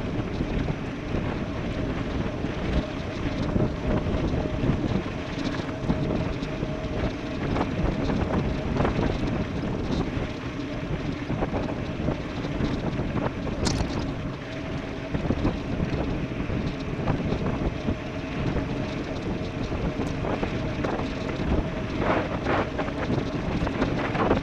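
Wind rushing over the microphone of an e-bike riding fast downhill, with a steady hum underneath. There is a single sharp click about two-thirds of the way through.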